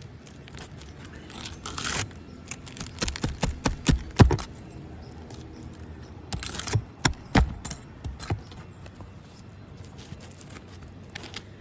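Hand tool prying and scraping under brittle asphalt shingles to work a roofing nail loose, with a run of sharp knocks and scrapes. The knocks are loudest about four seconds in and come again around seven seconds.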